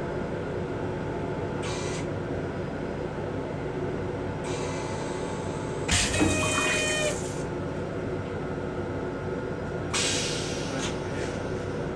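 Metro-North M7 electric railcar running, a steady low rumble heard from inside the car. About six seconds in comes a louder clattering, squeaking noise lasting over a second, and a short rushing noise near the end.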